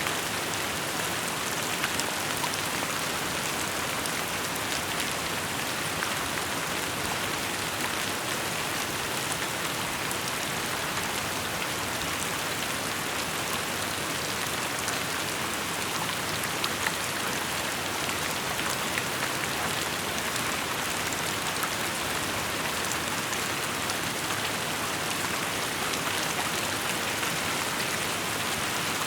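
Steady rain falling on surfaces: an even hiss of rainfall with the fine patter of many individual drops.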